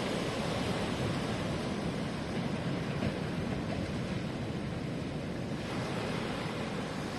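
Ocean surf washing onto the shore: a steady rushing noise, heaviest in the low end, with no separate events.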